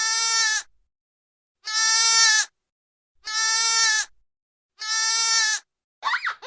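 A farm animal bleating four times, the same high-pitched call each time, each under a second long and about a second and a half apart. Near the end a different call with sliding, wavering pitch begins.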